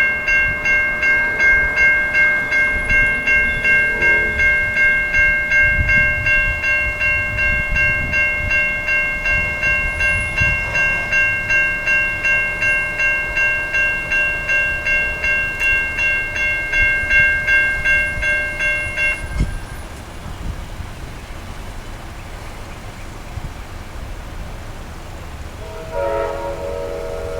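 Railroad crossing bell ringing steadily at about two strikes a second, then stopping about two-thirds of the way through. Near the end a train horn starts blowing a chord.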